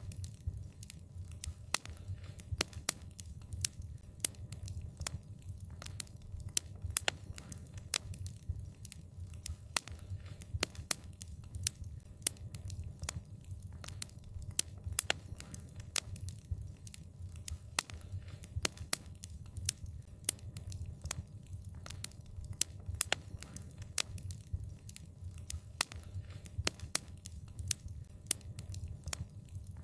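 Wood fire crackling: frequent sharp pops and snaps, several a second and irregular, over a steady low rumble of the burning fire.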